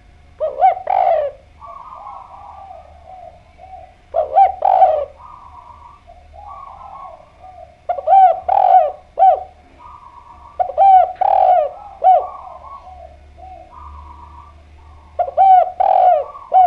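Spotted dove (derkuku/tekukur) cooing persistently, as a lure call. It gives loud multi-note coo phrases about every three to four seconds, five in all, with softer cooing between them.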